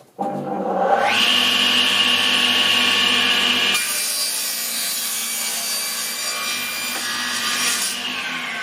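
Table saw blade spinning up, then cutting through a plastic floor tile on a crosscut sled from about a second in. The cutting sound changes near four seconds, and near the end the cut eases off while the blade keeps running.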